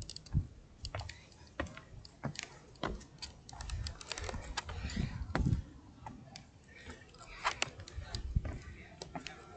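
Irregular light clicks and taps, several a second, over a low rumble.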